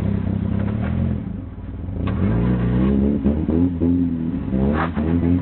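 Car engine running, then revved up and down over and over as it strains to get free of snow.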